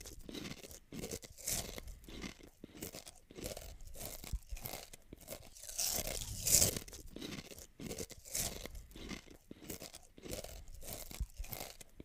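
Close-up eating sounds: someone biting and chewing crunchy food, a quick run of crisp crunches about two or three a second, with a louder bite about halfway through.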